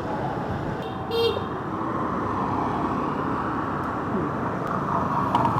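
Steady engine and traffic rumble with a short horn toot about a second in.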